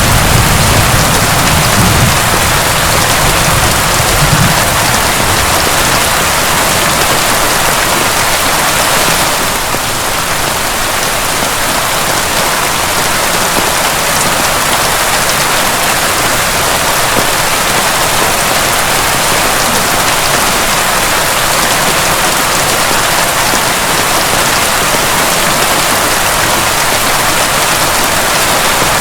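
Heavy, steady rain. A low rumble of thunder dies away over the first few seconds.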